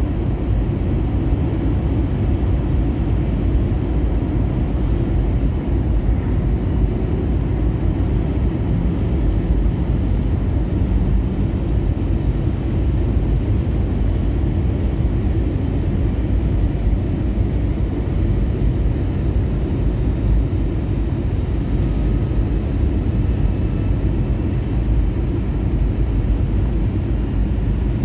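Steady low rumble of an Airbus A320-214 airliner cabin in flight: the CFM56 engines and the airflow past the fuselage, heard from inside.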